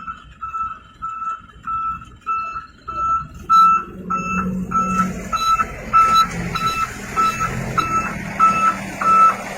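A truck's reversing alarm beeping steadily, about one and a half beeps a second, over a diesel engine running, which grows louder and noisier about halfway through.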